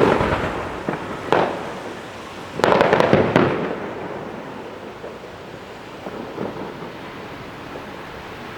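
Fireworks going off: a few sharp bangs in the first second and a half, a dense cluster of bursts about three seconds in, then a fading rumble with a couple of faint pops later.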